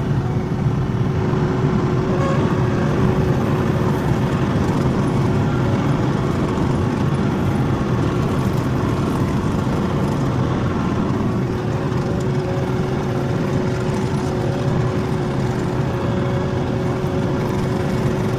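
Skid steer loader's engine running steadily under work, with a constant whine over its low rumble.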